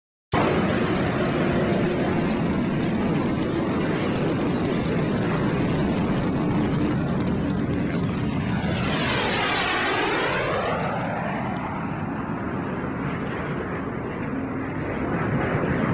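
Jet aircraft flying past: a loud steady engine rush. It cuts in suddenly, and a sweeping tone falls and then rises in pitch about nine to ten seconds in as the aircraft passes overhead.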